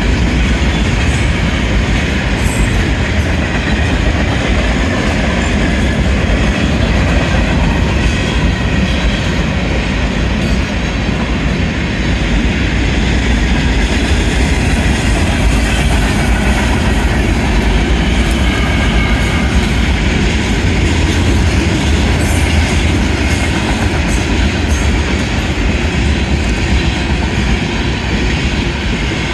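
A Union Pacific manifest freight train's cars rolling past close by: a steady, loud rumble with the wheels clacking over the rail joints.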